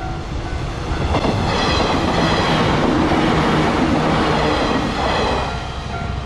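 A JR West 115-series electric train passing over a level crossing: its rumble and rail noise build from about a second in and fade away after about five and a half seconds, with several high whining tones over the loudest part. The crossing's warning bell ringing steadily is heard before the train drowns it out and again as the train fades.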